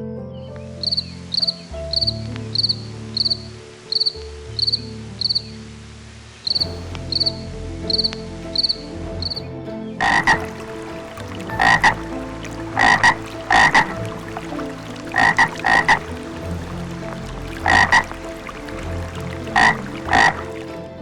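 Animal calls: a regular run of short, high chirps a little under twice a second, then from about ten seconds in, louder and lower calls, often two in quick succession.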